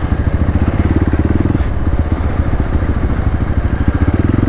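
Hero Xpulse 200's single-cylinder engine running steadily with a rapid, even beat.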